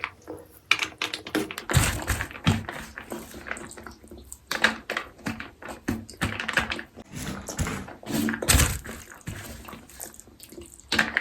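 Close-miked eating sounds: a person chewing food with irregular mouth clicks and taps.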